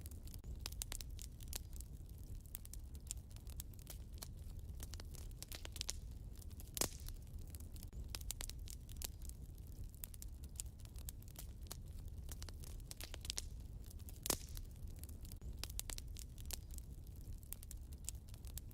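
Fire in a fireplace crackling: a constant scatter of small crackles over a low, steady rumble. Two louder pops stand out, about 7 and 14 seconds in.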